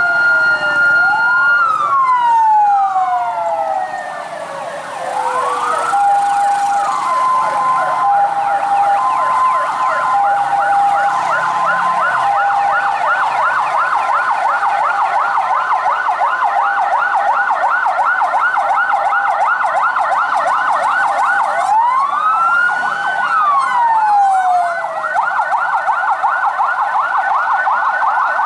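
Several fire truck sirens sounding at once: a fast yelp sweeping rapidly up and down through most of it, wails that wind down in the first few seconds and rise and fall again a little past the middle, and a two-tone hi-lo alternating for several seconds after about six seconds in.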